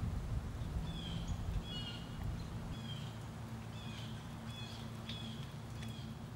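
Small birds chirping in short, repeated calls, about one or two a second, over a steady low hum.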